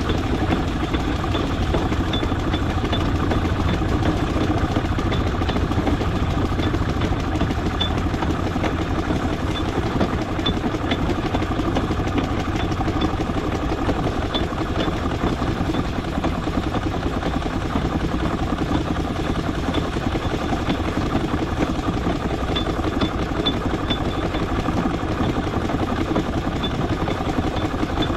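Steam traction engine running on the move, a steady rumble and mechanical clatter with faint, repeated small ticks.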